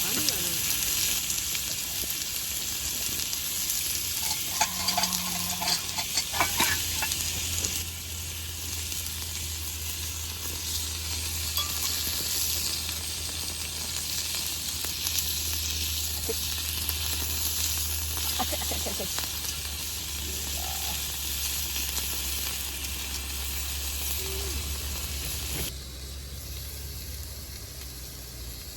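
Food sizzling as it fries in a pan, a steady hiss with a few sharp clicks of a utensil in the first quarter; the sizzle drops noticeably near the end.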